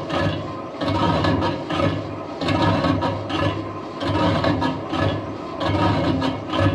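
Lathe turning a steel truck wheel rim: the cutting tool scraping and rubbing against the spinning metal over a steady low machine hum, rising and falling in loudness about once a second.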